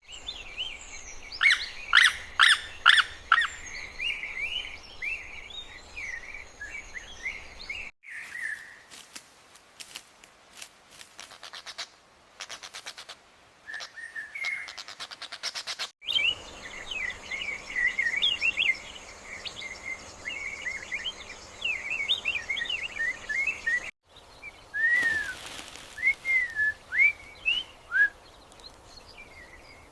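Wild birds chirping and calling, heard in several short clips of about eight seconds each that cut abruptly from one to the next. The first and third clips hold a dense chorus of quick chirps; the last holds sparser, single down-slurred calls.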